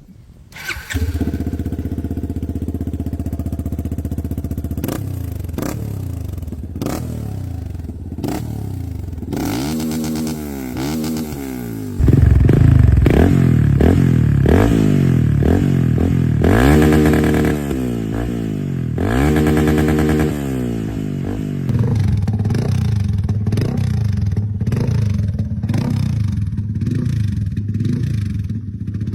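Yamaha FZ25's single-cylinder engine through aftermarket exhausts: it idles steadily, then is blipped in a run of quick revs that rise and fall from about nine seconds in, then settles back to idle. The tone changes abruptly a few times, as the sound switches from one exhaust to the next.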